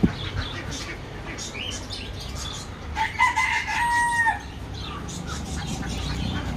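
A rooster crows once, a short crow about three seconds in that ends on a held note. Faint clucking and scratching sounds run underneath.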